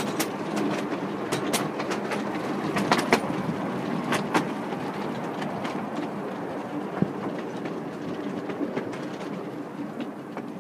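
Miniature railway train running along its track: a steady rumble with irregular sharp clicks as the wheels pass over rail joints, growing a little quieter near the end.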